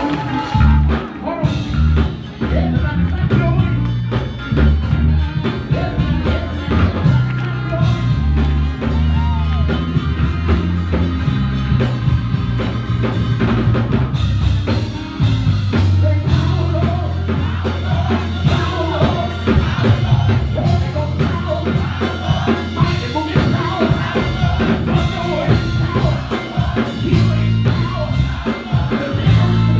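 Live worship band music: a drum kit keeping a steady beat over loud bass notes, with voices singing.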